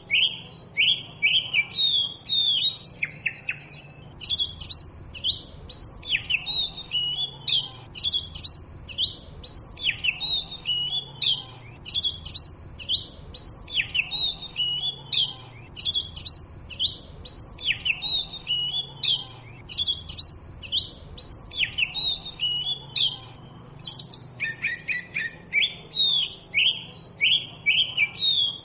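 Oriental magpie robin singing: a fast, unbroken run of varied high whistles and chirps, with a brief pause about three-quarters of the way through.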